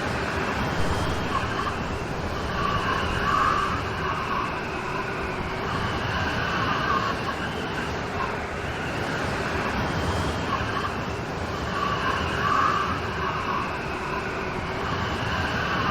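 Steady rain falling in a storm, with a short higher-pitched sound that comes back twice, about nine seconds apart.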